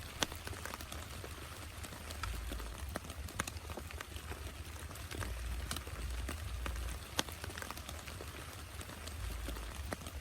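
Heavy rain falling steadily, with many sharp individual drops tapping close by, and a low rumble that swells and fades a few times underneath.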